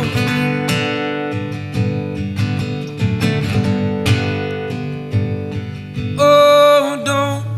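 Acoustic guitar strummed and picked in a steady rhythm, with a held note coming in about six seconds in.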